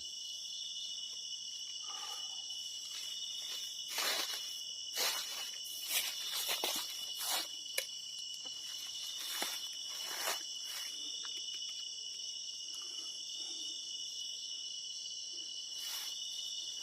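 Steady high-pitched chorus of insects chirping, with a cluster of short sharp rustling noises from about four to eleven seconds in.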